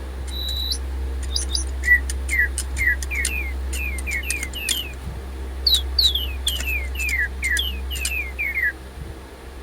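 Several DigiBird robot toy birds playing electronic chirps: a quick run of short, falling tweets, some overlapping. Their batteries are running low and they are falling out of sync with each other.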